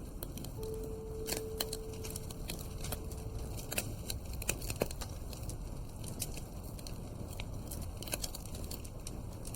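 Wood fire crackling in a fireplace: irregular sharp pops and snaps over a steady low rush of the flames.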